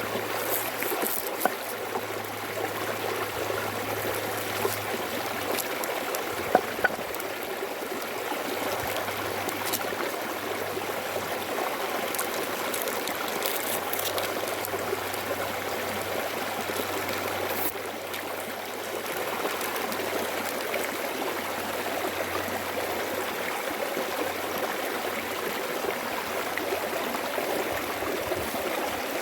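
Stream water running steadily, with a couple of light knocks about six to seven seconds in.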